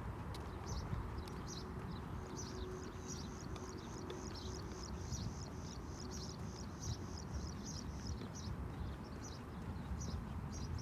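Wind buffeting the microphone in a low steady rumble, with a run of short high-pitched ticks that quicken to about four a second in the middle, then slow again.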